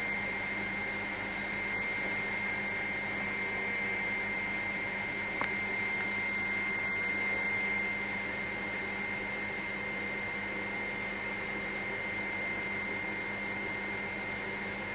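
Helicopter in flight, heard from inside the cabin: a steady mechanical hum with a constant high whine. There is one faint click about five and a half seconds in.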